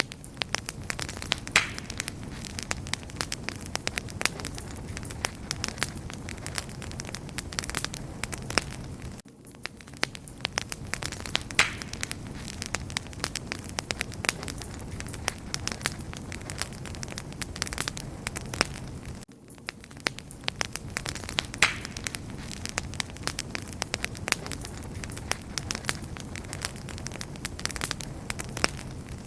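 Wood campfire crackling steadily: dense sharp crackles and pops over a soft low rush of burning. The level dips briefly twice, about every ten seconds.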